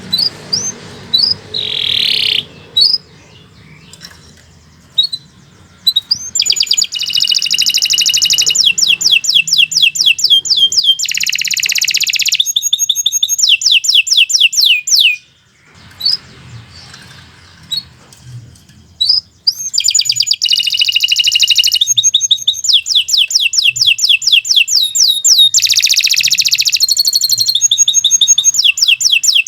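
Domestic canary singing: long, fast trills of rapidly repeated high notes, in two long bouts separated by a few seconds of scattered single chirps.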